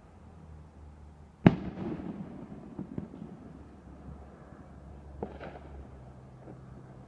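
Fireworks going off: one sharp, loud bang about a second and a half in, followed by crackling and a few small pops as it dies away, then a second, fainter bang near the end.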